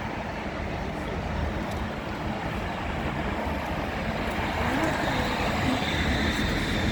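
A Končar tram and road traffic running along a city street. The rumble grows louder toward the end, with a faint high whine coming in during the second half.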